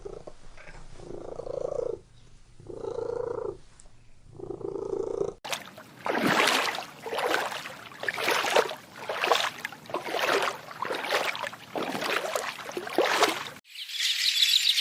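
Animal sounds in three clips cut together: three pulses about two seconds apart, then a louder run of rough, evenly repeated strokes, then a high, fast chattering sound near the end.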